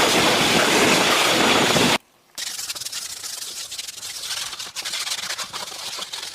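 A loud, steady spraying hiss for about two seconds that cuts off abruptly, then after a brief gap a quieter scrubbing or rubbing sound made of many small scratchy strokes.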